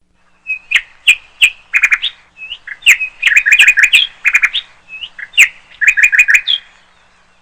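Songbird chirping: the same phrase three times, each a few sharp chirps followed by a quick run of four or five notes.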